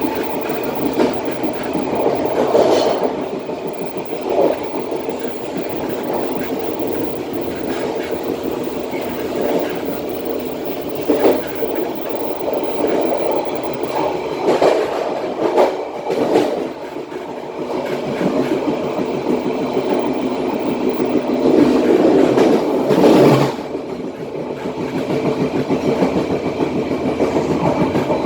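Passenger train wheels running on the track, heard from the rear carriage: a steady rumble with repeated clattering over the rails. The loudest clatter comes about 22 to 23 seconds in.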